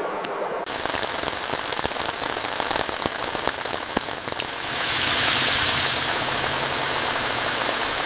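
Heavy rain falling, with many separate drops striking a surface close by. It swells louder about five seconds in, then eases slightly.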